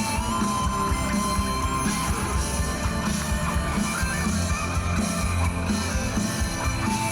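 A rock band playing live: distorted electric guitars over bass and drums, with a held lead guitar note in the first two seconds.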